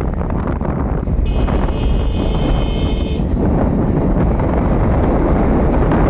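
Steady wind buffeting the microphone over vehicle road noise while riding. From a little over a second in, a steady high tone sounds for about two seconds and then stops.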